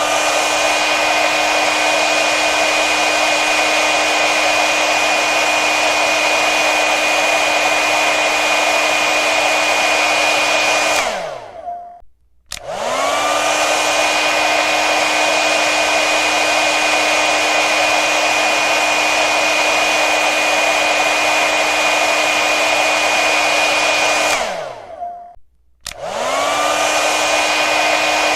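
Hair dryer blowing with a steady airy rush and a motor whine. It is switched off and on twice: the whine falls away as the motor spins down, there is a second or so of silence, then a click and the whine rises as it spins back up.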